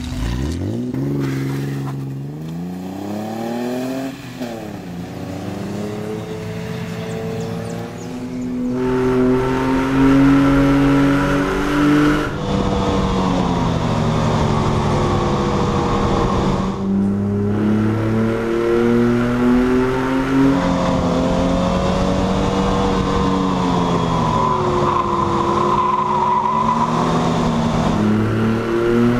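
Chevrolet Omega 3.0's engine accelerating hard on track: its pitch climbs steeply from the start, drops at gear changes about four and eight seconds in, then runs louder at high revs, easing and climbing again through the corners.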